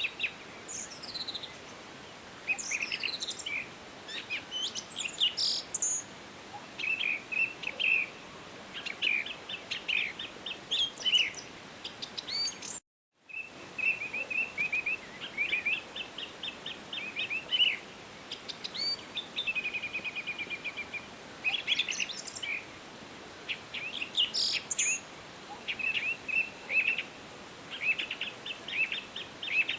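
Several songbirds singing and calling over one another, quick chirping trills and higher whistled notes, over a steady faint background hiss. The sound cuts out completely for a moment about 13 seconds in.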